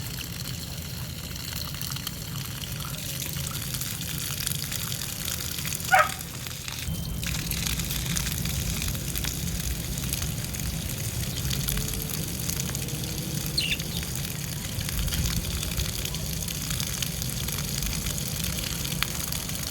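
Water running and splashing steadily, as for a budgerigar bath. A short, sharp squeak about six seconds in is the loudest moment, with a fainter high squeak about two-thirds of the way through.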